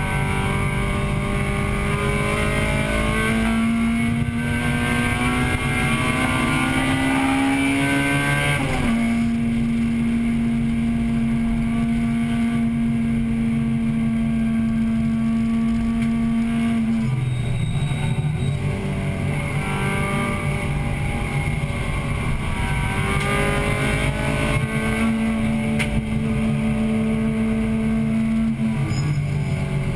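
Acura Integra Type-R's four-cylinder engine heard from inside the cabin under racing load. It climbs steadily in pitch, drops sharply about nine seconds in, then holds a steady high note for several seconds. Around seventeen seconds in it falls off and drops low, then climbs again and holds before another drop near the end.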